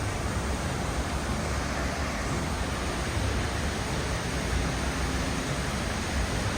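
Steady roar of a large waterfall crashing into its pool, an even rushing noise with no breaks.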